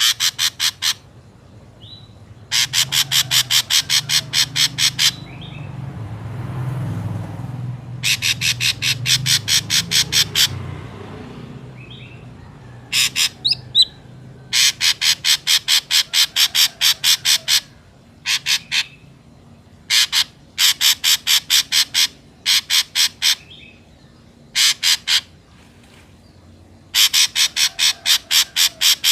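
Ashy drongo calling: runs of rapid, harsh repeated notes, about five a second, each run lasting one to three seconds with short pauses between. A low rumble sits underneath for a few seconds in the first half.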